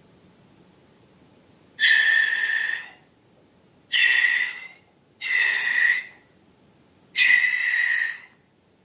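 Air let out of a balloon's neck in four short bursts, each about a second long: a hiss with a steady whistling squeal in it.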